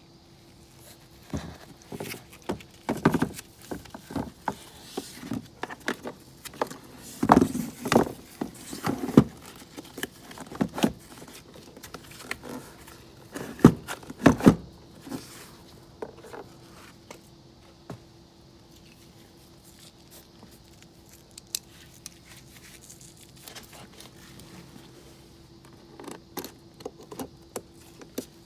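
Irregular clatter and knocks of hand tools and parts being handled during work on a scooter battery, in clusters with the loudest knocks about a third and half way through, then a quieter stretch and a few clicks near the end, over a faint steady hum.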